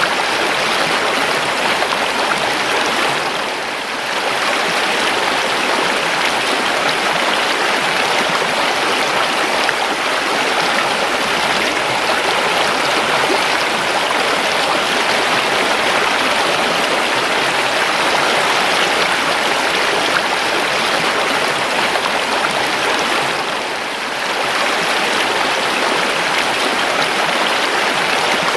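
River water flowing steadily, a dense even rush of water. It dips briefly in level twice, a few seconds in and again about three quarters of the way through.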